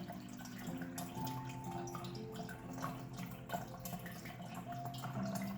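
Soft background soundtrack of water dripping and trickling, with faint held tones at changing pitches.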